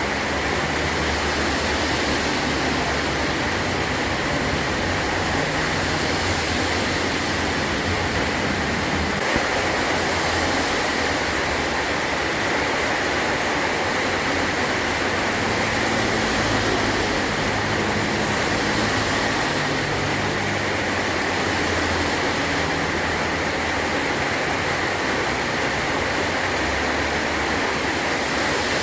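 Heavy rain drumming steadily on a metal tin roof, a dense, unbroken hiss of water.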